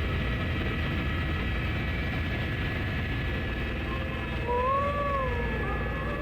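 Helicopter cabin noise: a steady drone of engine and rotor with a thin steady whine over it. About two-thirds in, a short tone rises and falls.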